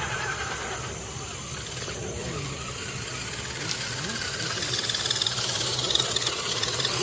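Radio-controlled truck's motor running, its pitch rising and falling again and again as the truck is driven, with a brighter high whine for a couple of seconds near the end.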